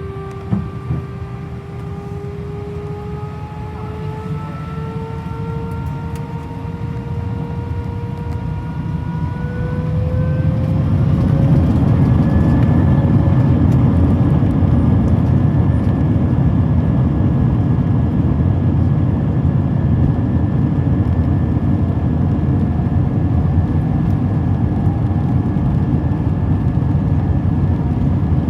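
Airbus A319 jet engines heard from inside the cabin, their whine rising in pitch as they spool up to takeoff thrust, then about ten seconds in a steady loud roar and rumble of the takeoff roll with the whine held steady. A single brief knock about half a second in.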